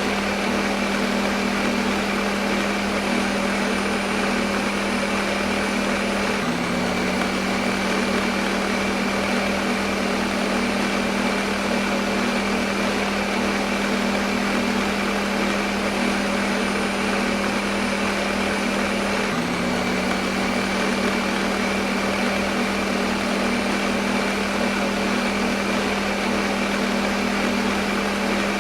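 Electric kitchen blender motor running steadily with a constant whirring hum, played as white noise. The hum briefly hitches about six seconds in and again near twenty seconds.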